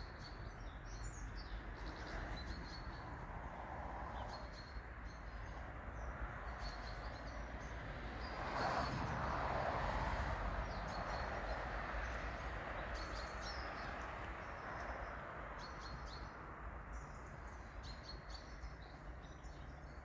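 Small birds chirping now and then over a steady outdoor background hiss and low rumble. The background swells for a few seconds around the middle, then eases off.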